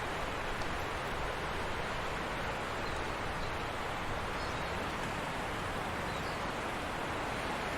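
Forest stream flowing steadily, a constant rushing of water, with a few faint, brief high chirps in the middle.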